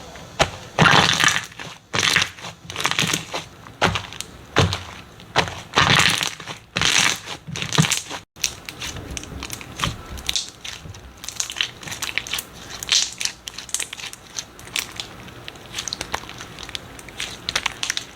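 Slime being squeezed and pressed by hand, giving crunchy crackling and popping sounds; heavy crunches in the first eight seconds, then after a brief gap lighter, quicker crackles.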